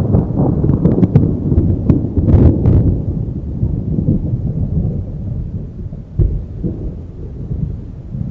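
Heavy rain with a long rolling rumble of thunder, loudest at the start and slowly dying away, with sharp crackles in the first few seconds.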